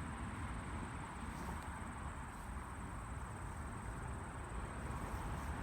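Outdoor ambience: a steady, high-pitched insect trill, like crickets, over a low rumble.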